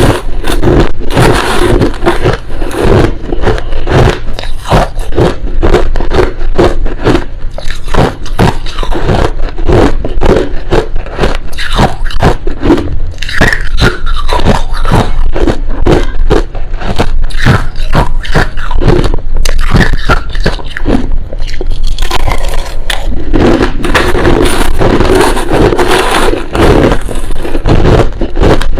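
Loud, continuous crunching of crushed ice being chewed close to the microphone, with many sharp crunches a second.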